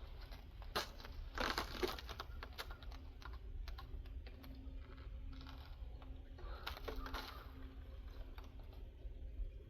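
Irregular crunching and clicking in snow, typical of boots stepping through about six inches of fresh snow, with small knocks in between.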